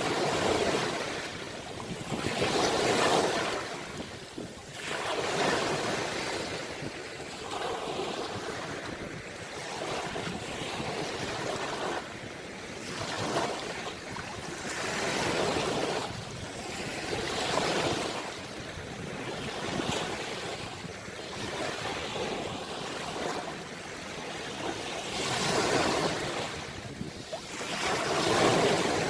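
Ocean waves breaking and washing on the shore, swelling and falling back every two to three seconds.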